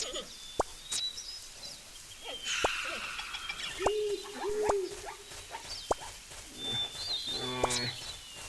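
Birds chirping and calling in short, high notes, mixed with sharp clicks, two lower arching calls a little under halfway through and a buzzy, pitched animal call near the end.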